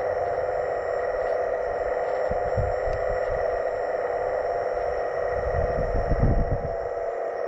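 Hydraulic pump of a scale RC excavator running with a steady whine, with low rumbles about two and a half seconds in and again around six seconds as the machine works.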